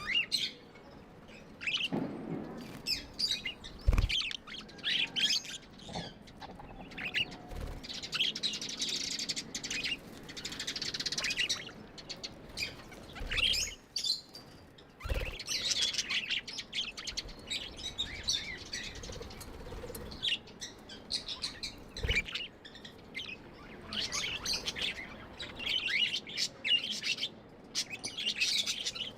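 Pet budgerigars (budgies) chirping and chattering in rapid, high twittering bursts, with a few dull thumps.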